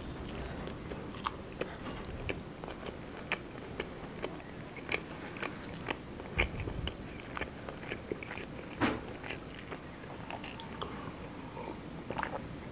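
Close-up biting and chewing of a shawarma wrap: a bite, then soft, wet mouth clicks and smacks at irregular intervals.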